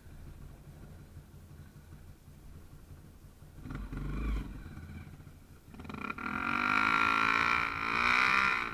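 Small trail motorcycle engine running low, with a brief rev about four seconds in, then revving hard and wavering in pitch for the last two and a half seconds as it pulls under load.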